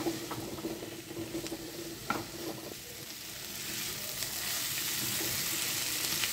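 Soya chunks and potato cubes sizzling in spiced oil in a kadai while a spatula stirs and scrapes them, sautéing the masala into the chunks. A few light spatula clicks come in the first half, and the sizzle grows louder from about halfway.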